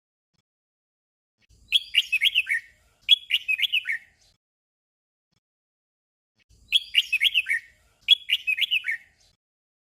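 Red-whiskered bulbul song: a short phrase of quick, falling whistled notes, each phrase sung twice in a row. The doubled phrase comes twice, with silent gaps between.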